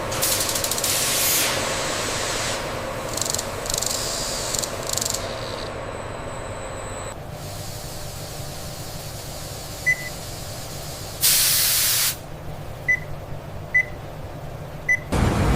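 Factory sound bed: a low machine hum under repeated bursts of hissing, like pressurised air or steam venting, with one loud hiss a little past the middle. Four short high electronic beeps sound in the second half.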